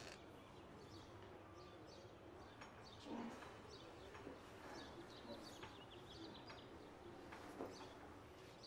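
Faint birds chirping in the background, many short high calls scattered throughout, with a soft knock about three seconds in.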